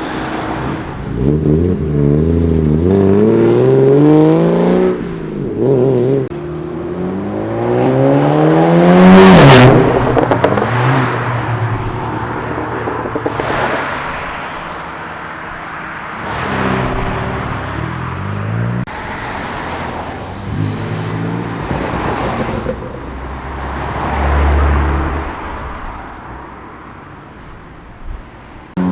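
Tuned cars accelerating hard one after another, engines revving up with rising pitch through the gears. The loudest run climbs to a peak about ten seconds in. Further cars pass and pull away after that, with a deep low rumble about 25 seconds in.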